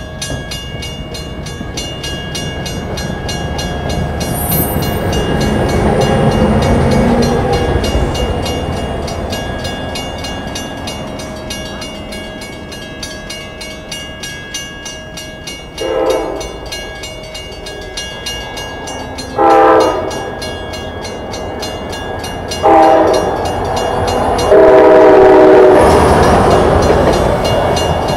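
Level-crossing bell ringing steadily while an NJ Transit commuter train passes, its rumble swelling and then fading in the first half. In the second half an approaching train sounds its horn four times, the last blast held for a couple of seconds and loudest.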